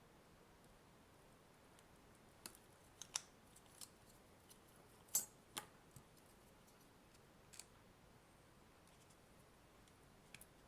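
Short, sharp clicks and ticks of a tool prying at the clipped plastic case of a Nintendo Switch AC adapter, about nine scattered ones starting a couple of seconds in, the loudest about five seconds in.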